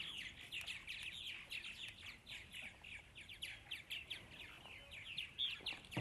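Many small birds chirping together: a dense run of short, overlapping, downward-sweeping high chirps.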